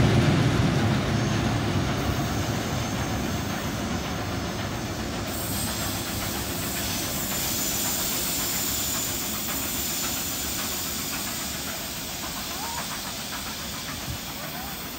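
A heritage train of old passenger carriages with a Class 44 diesel locomotive at the rear passes and runs away down the line. Its wheel and rail noise fades steadily as it goes.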